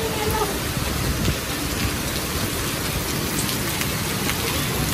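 Heavy downpour of rain mixed with hail pelting stone paving: a steady, dense hiss with faint scattered ticks of impacts.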